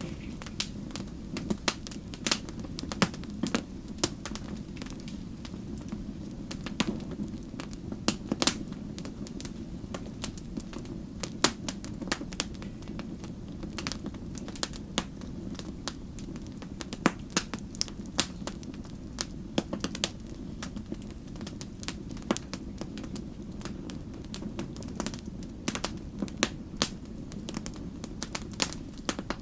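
Wood campfire burning, crackling with frequent irregular sharp pops and snaps over a steady low rumble of the flames.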